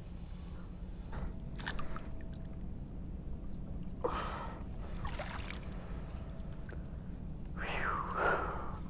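Sounds from a kayak on the water: a steady low rumble under a few short splashing and breathy noises, the loudest near the end.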